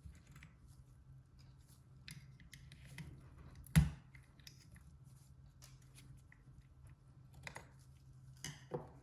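Small metal parts being handled on a workbench while a clipper is taken apart or reassembled: scattered light clicks and scrapes, a sharp knock a little under four seconds in, and a few more knocks near the end, over a low steady hum.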